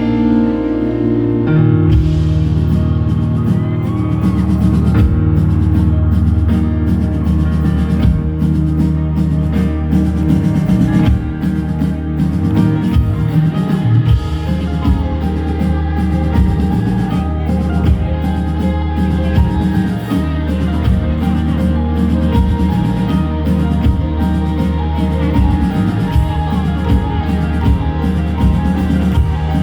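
Rock band playing live: held keyboard chords give way about two seconds in to the full band, with drum kit, bass and electric guitar, playing on steadily.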